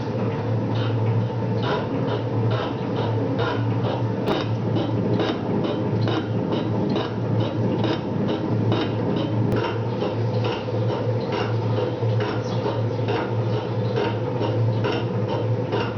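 Metal shaper running, its motor humming steadily while the ram strokes back and forth about twice a second with a regular clack on each stroke, cutting slots in a part with an extended tool holder.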